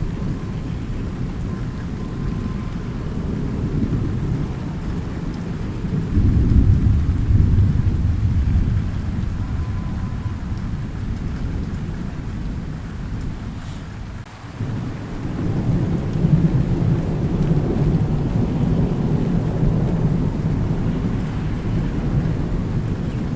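Thunder rumbling over steady rain. A louder roll of thunder swells about six seconds in and slowly fades, the rumble drops away briefly around the middle, then builds again.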